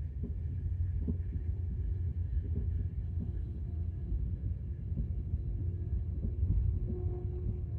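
Low, steady rumble of a sleeper train heard inside its compartment, with a faint steady hum over it and a few small ticks.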